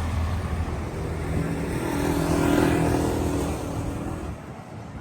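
A motor vehicle driving past on the street, its engine and tyre noise swelling to a peak about two and a half seconds in, then fading away.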